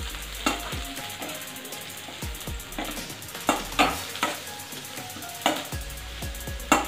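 Chopped garlic and green chillies sizzling in a little oil in a steel kadai. A metal spoon stirring them scrapes and clinks against the pan several times, the sharpest clink coming near the end.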